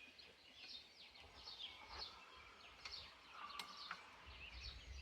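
Small birds chirping and twittering in quick, repeated short notes, with a few faint clicks about halfway through.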